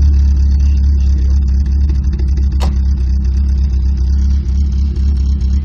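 Eight-valve car engine running steadily at idle through a Stinger 4-2-1 exhaust header, resonator and muffler, its exhaust note low and even. A single short click about two and a half seconds in.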